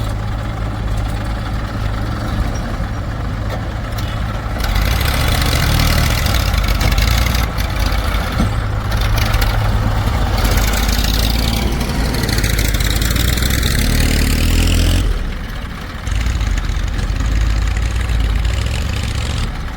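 Heavy diesel machinery running: a steady low engine note that grows louder and fuller from about four seconds in, as under working load, then drops back suddenly about fifteen seconds in and runs on.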